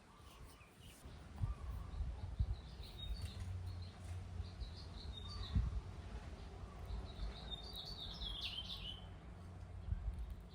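Birds chirping in short bursts, over a low rumble and a few dull thumps.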